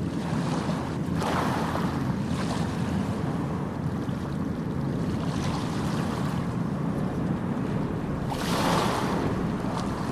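Ocean waves: a steady low rumble of surf with several hissing washes of breaking water, the loudest about eight seconds in.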